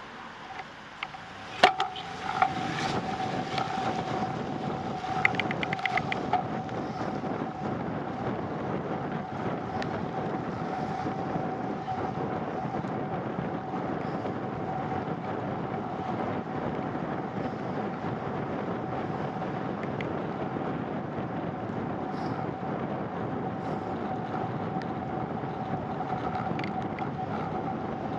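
Steady rolling noise of a bicycle ride, tyres on wet pavement with wind on the microphone, carrying a steady whine. It sets in after a few sharp knocks about two seconds in.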